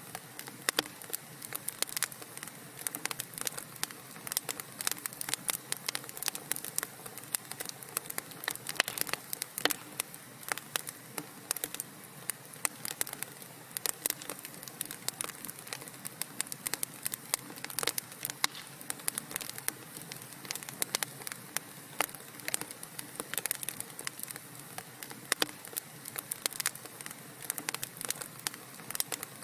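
Wood fire crackling in a fireplace: dense, irregular sharp pops and snaps over a steady soft hiss of burning.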